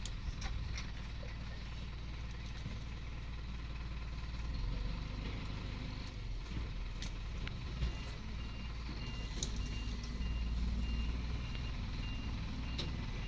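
Safari vehicle's engine idling with a steady low rumble. From about eight seconds in, a high electronic beep repeats about twice a second.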